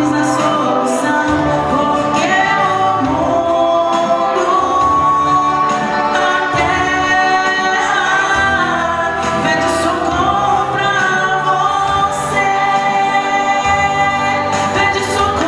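Music with a choir of voices singing over steady accompaniment.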